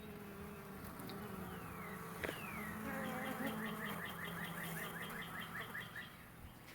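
Honeybees buzzing around sugar-water and honey feeders, a steady hum. From about three seconds in to six, a run of rapid high chirps, about six a second, sounds over it.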